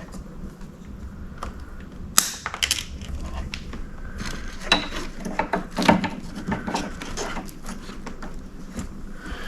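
Hard plastic clicks and rattles of hands working headlight bulbs and sockets on a headlight assembly, with one sharp click about two seconds in and a busier run of clicks midway, over a steady low hum.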